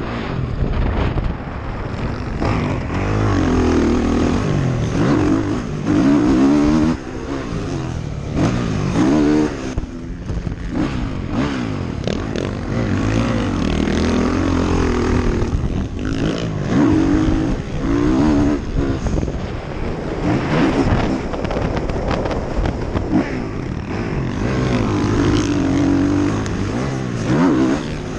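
ATV engine being ridden hard, the revs climbing and dropping again and again through the gears, with wind buffeting the microphone.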